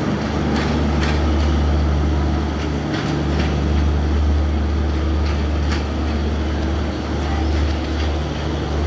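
Passenger coaches of a broad-gauge express train rolling past, their wheels clattering over the rail joints at irregular intervals over a steady low hum.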